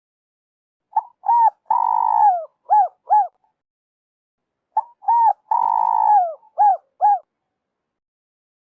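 Spotted dove cooing, two phrases about four seconds apart. Each phrase is two quick notes, then a long drawn-out coo that falls at the end, then two more quick notes.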